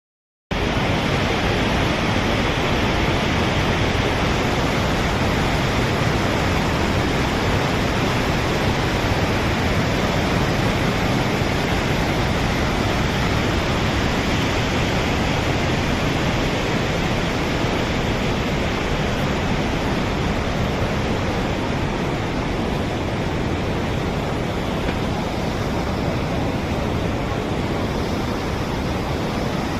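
Saraswati mountain river rushing in a fast torrent: a loud, steady wash of water noise.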